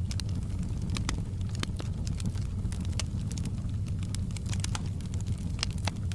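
Wood fire burning in a fireplace: a steady low roar of flames with frequent sharp, irregular crackles and pops from the burning logs.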